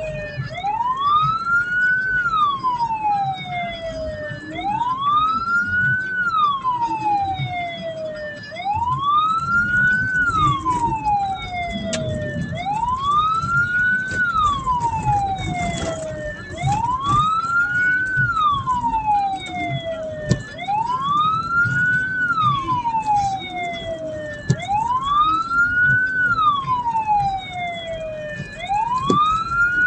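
Hearse's electronic siren on slow wail, rising and falling about once every four seconds, with a fainter, higher second wail overlapping out of step. Steady low engine and road noise underneath.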